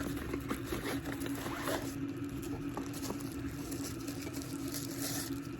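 Plastic packaging rustling and tearing as a small item is unwrapped by hand, with scattered light clicks and a steady low hum underneath.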